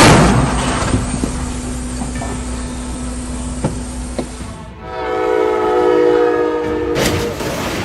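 A train rumbling past, with a steady low hum and a few clicks after a loud noisy burst at the start. About five seconds in, a train horn sounds one held blast of several tones together for about two seconds, then cuts off suddenly.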